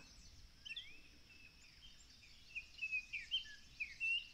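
Forest ambience of small birds chirping: a single rising chirp about half a second in, then a run of short chirps and quick whistled glides in the last two seconds, over a faint steady high hiss.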